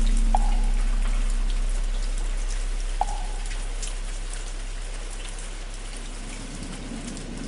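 Steady rain pattering, under the long fading hum of a struck bell slowly dying away. Two single hollow wooden-fish knocks sound, about half a second and three seconds in.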